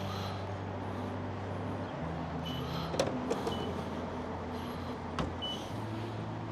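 An engine running steadily at idle, its pitch shifting slightly twice, with two sharp clicks and a few short high beeps.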